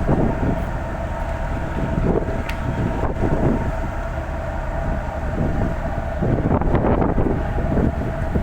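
Ferry's engines droning with a steady hum under heavy, gusting storm wind buffeting the microphone, in irregular surges.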